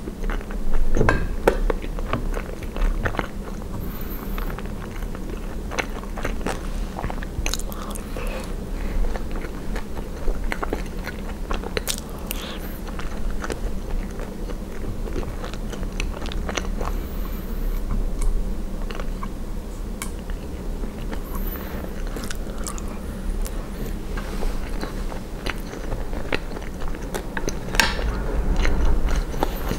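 Close-miked chewing and biting of poutine (fries, cheese curds and gravy), with scattered sharp clicks and crunches throughout.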